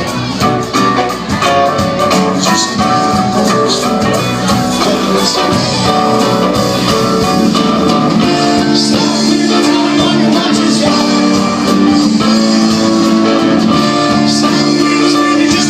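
A live band playing, with long held chords from about halfway through.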